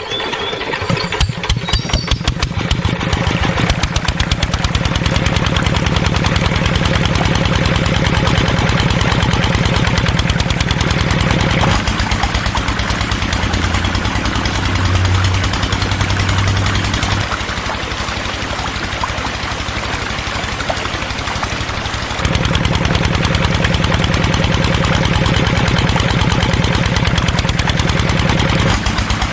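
Small engine of a DIY mini tractor starting, its firing quickening over the first few seconds, then running steadily. It drops to a lower, quieter note about twelve seconds in, dips further for a few seconds, then picks back up near the end, as with changing load or throttle.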